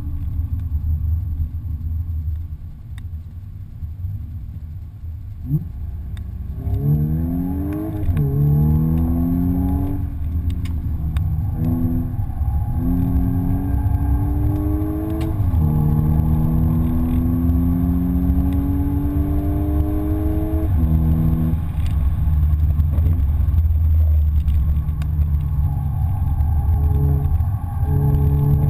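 Audi S5's engine heard from inside the cabin under hard acceleration on a track: it climbs and drops several times through quick upshifts, then pulls through one long steady rise in pitch before easing off, and picks up again near the end. A steady low road rumble runs underneath.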